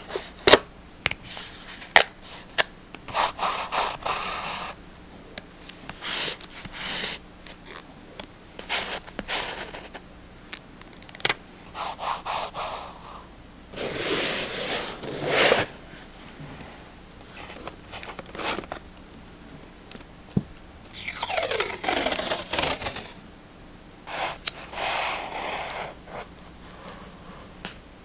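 Paper crafting sounds: a run of sharp clicks and snips at first, then several spells of paper being rubbed, scraped and rustled.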